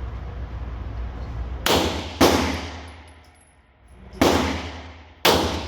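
Four pistol shots from a semi-automatic handgun, each followed by a long ringing echo in an indoor range. Two come about half a second apart roughly a second and a half in, then two more, a second apart, near the end. A low steady hum sits under the start.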